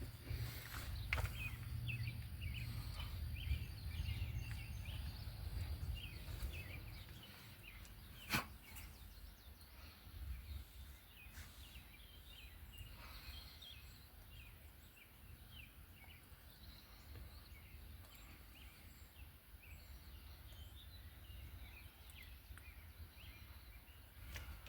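Faint outdoor ambience of small birds chirping over a low rumble, probably wind on the microphone, with a single sharp click about 8 seconds in.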